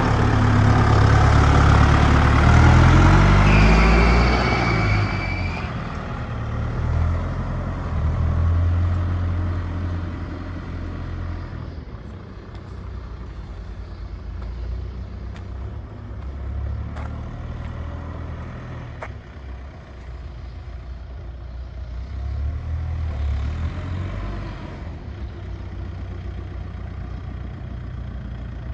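Deutz-Fahr K120 tractor's four-cylinder turbo diesel engine running: loudest and rising in pitch over the first few seconds, then settling to a lower, steadier run, with a brief swell again near the end.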